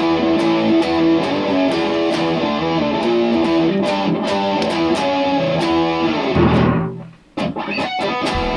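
Distorted electric guitar playing a heavy riff in the studio, with bass under it and sharp regular ticks on the beat. It stops about seven seconds in, then a short phrase follows.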